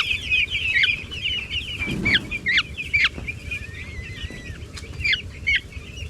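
Six-day-old broiler chicks peeping, a dense chorus at first that thins to scattered single high peeps that slide downward.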